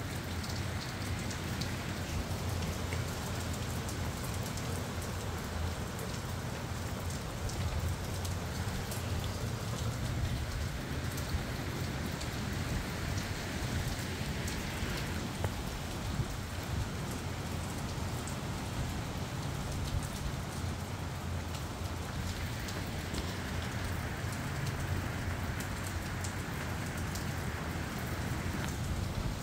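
Steady rain falling in gusty wind, with a constant low wind rumble on the microphone and fine patter of raindrops. The hiss swells with gusts midway and again near the end.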